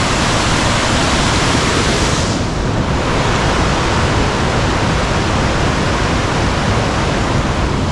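Waterfall rushing: a loud, steady roar of falling water. Its hiss softens slightly about two and a half seconds in.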